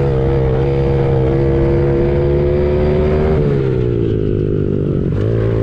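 Honda CRF70 pit bike's small single-cylinder four-stroke engine held at high revs under throttle, then dropping in pitch as the throttle closes about three and a half seconds in, and picking up again near the end.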